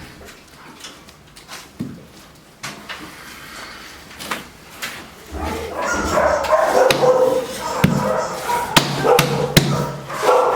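A dog barking and whining, louder from about halfway through, with several sharp knocks.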